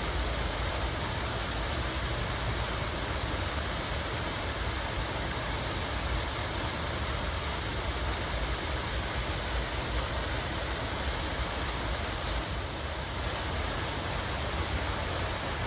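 Running water with a steady, even rush.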